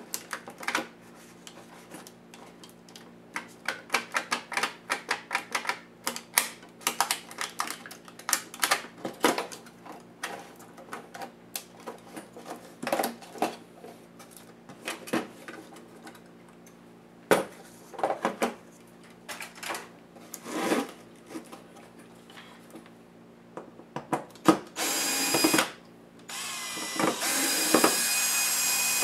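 A long run of clicks, taps and scrapes from plastic and metal laptop parts being handled and pried apart. Near the end, a small power tool runs in two stretches.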